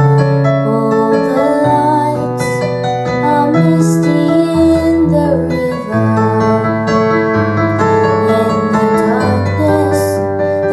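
Instrumental passage of a song's backing music: piano or keyboard chords held and changing every second or two, without a clear sung line.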